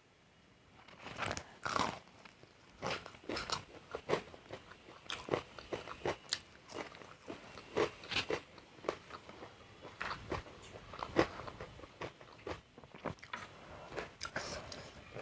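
Close-up crunching bites and chewing of crisp food, irregular crunches every half second or so.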